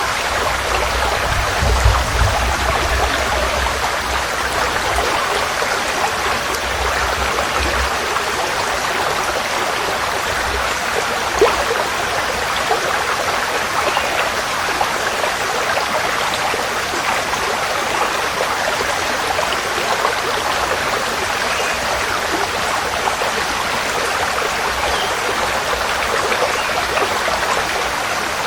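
Forest stream flowing steadily, an even rushing and trickling of water.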